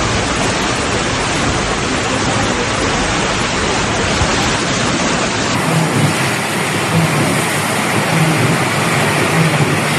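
Loud, steady rushing noise of storm water, heavy rain or flooding. About five and a half seconds in it cuts to another recording of the same kind of noise, with a faint low hum under it.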